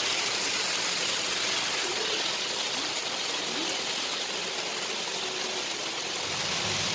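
Heavy rain pouring down: a steady rushing hiss of water, with faint voices underneath.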